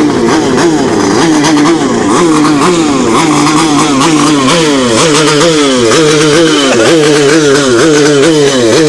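Motorcycle engine breathing through an aftermarket BDR kupang-style exhaust, revved in quick repeated throttle blips, its pitch climbing and dropping about twice a second in the second half.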